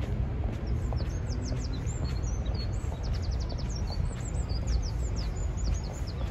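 Small birds chirping and twittering, with quick high notes and short fast trills, over a steady low background rumble.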